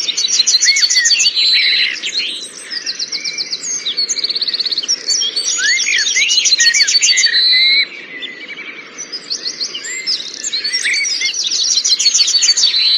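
Several small birds chirping and trilling together, a dense run of rapid, high-pitched repeated notes, with a quieter stretch a little past the middle.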